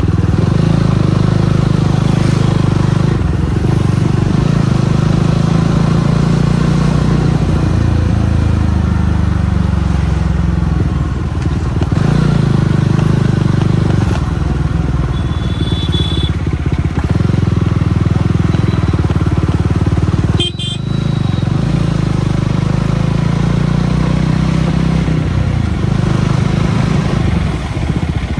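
Jawa 42 Bobber's single-cylinder engine running as the motorcycle is ridden, its pitch stepping up and down every few seconds with throttle and gear changes, with a brief drop about twenty seconds in.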